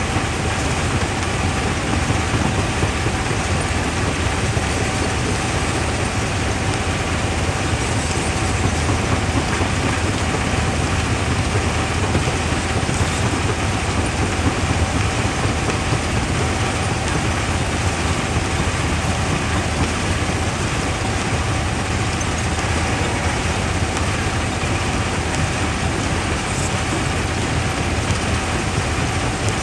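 Quarry jaw crusher running: a dense, even mechanical rumble, heavy in the low end, with a thin steady whine over it.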